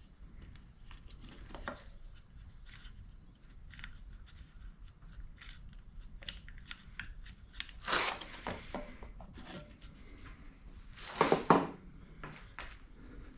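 Hand tools and plastic parts being handled as a small cover is worked off a pancake air compressor: scattered light clicks and scrapes, with two louder clattering, rustling bursts, one past the halfway point and one near the end.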